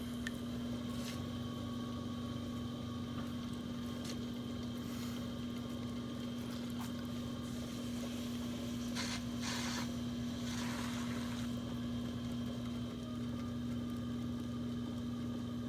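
Electric potter's wheel running with a steady hum while wet clay is being centred on it. A few brief hissy swishes come about nine to eleven seconds in.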